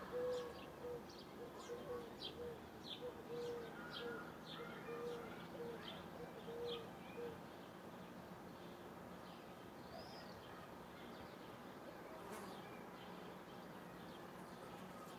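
Birds calling: one repeats short low hooting notes, about two a second, for the first half, while thin high chirps sound alongside. After that only faint scattered chirps are left.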